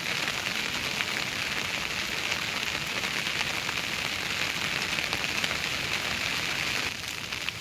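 Heavy rain falling steadily, a dense even hiss of drops. It gets quieter shortly before the end.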